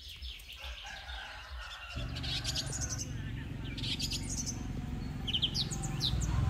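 Small birds chirping in short runs of quick, high, falling notes, with a low rumble underneath from about two seconds in.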